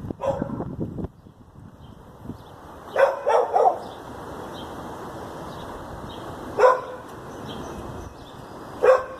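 A dog barking in short single barks, with a quick run of three about three seconds in, then single barks about six and a half seconds in and near the end.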